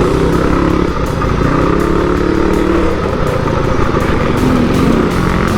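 Several motorcycle engines running loudly, their pitch rising and falling as they rev.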